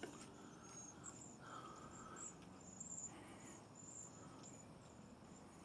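Faint high, thin calls from a feeding flock of small birds, many short whistled notes overlapping.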